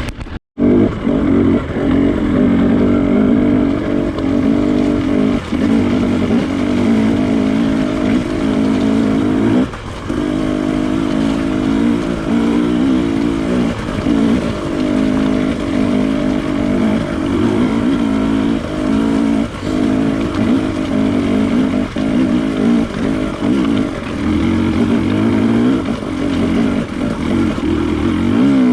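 KTM TPI two-stroke trail bike engine ridden hard under load, revs rising and falling with the throttle, with short dips for gear changes in second and third.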